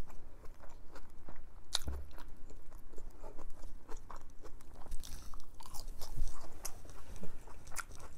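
Close-miked chewing and crunching of crisp crinkle-cut french fries, a run of irregular crackling bites, with one louder crunch about two seconds in.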